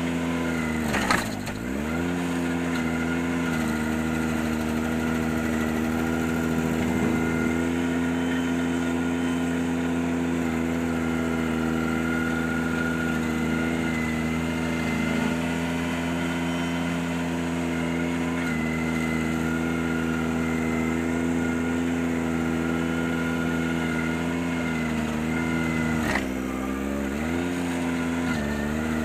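Ventrac 4520Z compact tractor's diesel engine running at high speed, driving the stump grinder attachment. Its pitch sags and recovers briefly about a second in, and twice near the end, as the load comes on.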